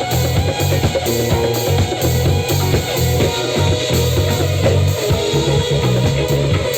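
Live trance band playing: drum kit and bass keeping a steady driving beat under guitar and keyboards.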